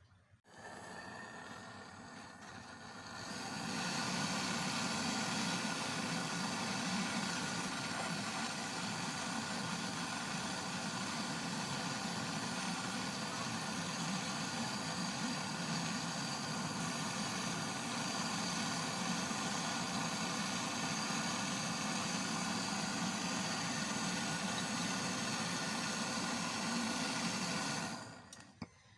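Hicook gas torch flame burning with a steady roaring hiss while brazing copper pipe. It lights about half a second in, grows louder a few seconds later, and cuts off near the end.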